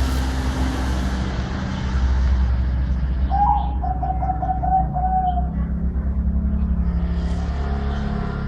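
Zebra dove of the mid-pitched voice class cooing: one stuttering, rapidly broken coo starting about three seconds in and lasting about two seconds, over a steady low rumble.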